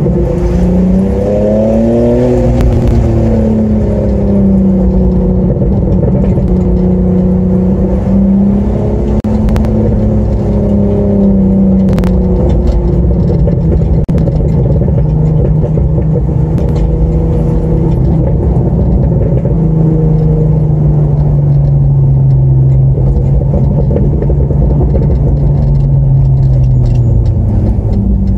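BMW E46 330Ci's 3.0-litre straight-six with the rear silencer deleted, heard from inside the cabin while driving. The engine note rises as it accelerates in the first couple of seconds, holds and wavers through the middle, then falls slowly over the last several seconds as the car eases off, with road rumble underneath.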